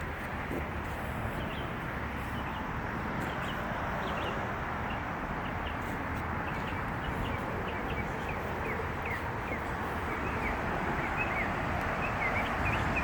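Small birds chirping repeatedly over a steady hum of outdoor background noise.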